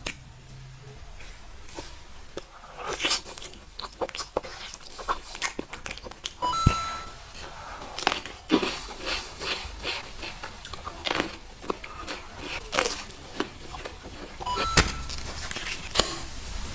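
Close-miked eating: irregular crunching bites and chewing with small clicks and rustles of food and packaging.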